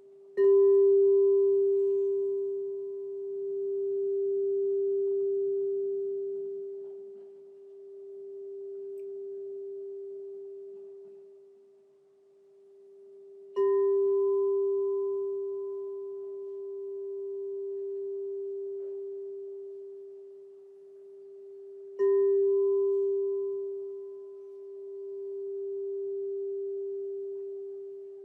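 Crystal singing bowl struck three times, about half a second in, near the middle and about two-thirds of the way through. Each strike rings on as one long pure tone with faint higher overtones. Its loudness swells and fades in slow waves.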